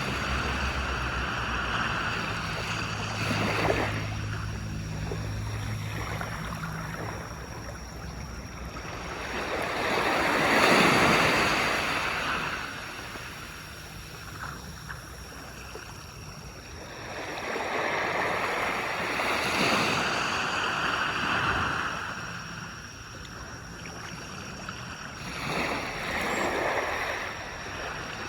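Sea waves breaking and washing up on a beach, swelling and ebbing every several seconds, the biggest about ten seconds in. A low steady hum runs under the first few seconds and fades out.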